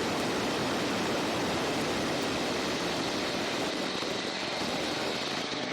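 Monster truck engine running hard: a loud, steady rush with no clear pitch.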